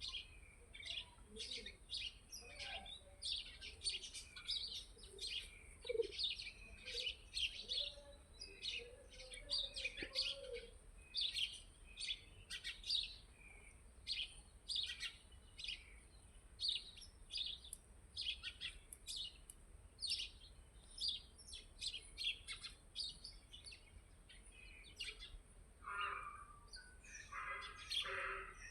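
Birds chirping: many short, high chirps in quick succession, with a lower, fuller bird call joining in near the end.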